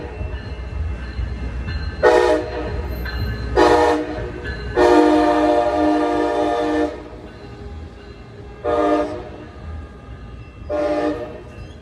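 Locomotive horn of an NCTD Coaster commuter train (Siemens Charger locomotive 5001) sounding a sequence of chord blasts as it arrives: two short blasts, one long blast of about two seconds, then two more short blasts. A low rumble of the moving train runs underneath.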